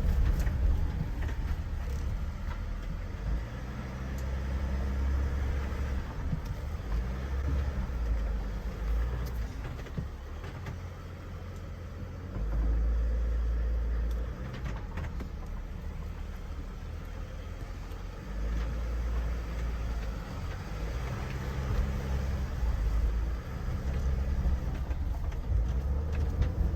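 Van driving slowly on a rough dirt road: a low engine and tyre rumble that swells and eases as it goes.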